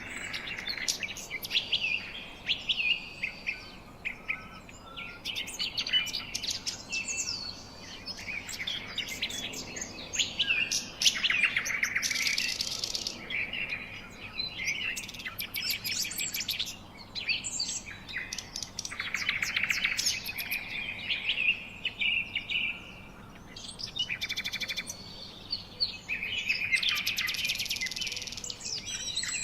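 Several small birds chirping and singing together, a dense run of quick, high twitters with rapid trills that come and go every few seconds.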